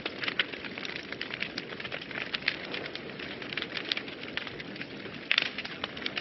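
Wood fire burning in a fireplace, crackling steadily over a soft rushing hiss, with irregular sharp pops and a brief cluster of louder pops near the end.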